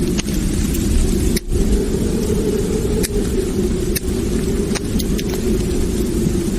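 Wood fire crackling in a fireplace: a steady low roar of burning with scattered sharp pops and snaps every second or so.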